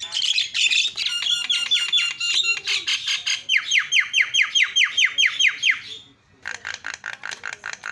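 Javan myna (jalak kebo) calling loudly: harsh, squawking chatter, then a fast run of about fourteen sharp down-slurred whistles over some two and a half seconds. After a short pause it breaks into a rapid buzzy rattle near the end.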